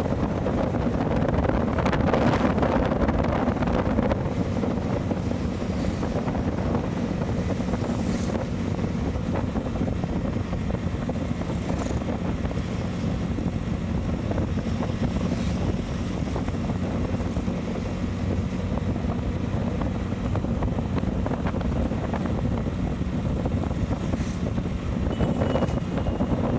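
Motorcycle underway: a steady engine hum under wind rushing across the microphone, the wind swelling about two seconds in and again near the end.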